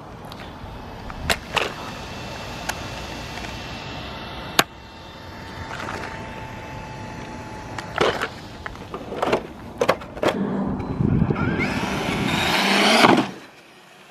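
Electric Traxxas RC trucks being driven: several sharp knocks and clatters, a steady whine for a few seconds, then motor and tyre noise that builds up about ten seconds in and cuts off abruptly near the end.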